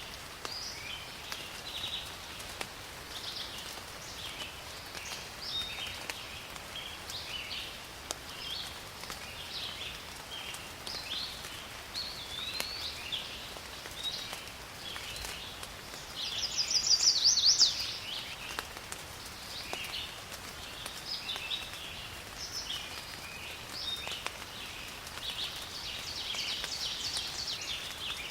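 Forest ambience: many birds calling and chirping over a faint, steady hiss of rain. About two-thirds of the way through, one bird gives a louder, rapidly repeated call lasting under two seconds.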